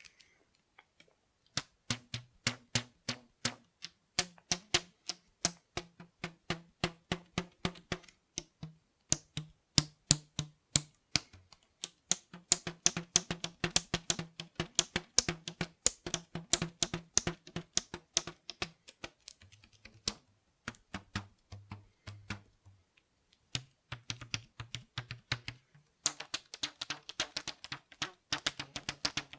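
Stretched rubber bands plucked rapidly, several twangs a second, each giving a short low buzzing note. The pitch shifts between a few low notes as the band's stretch changes, with brief pauses about a second in and around twenty seconds in.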